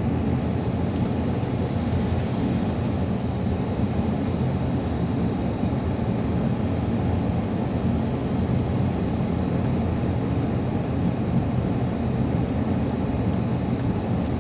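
Steady engine hum and road noise of a moving car, heard from inside the cabin, running evenly without any change in speed.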